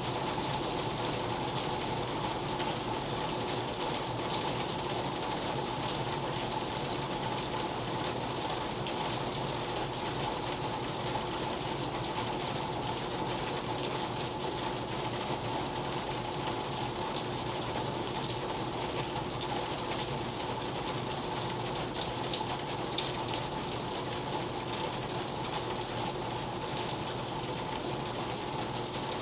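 Steady rain, a constant hiss dotted with many small drop ticks.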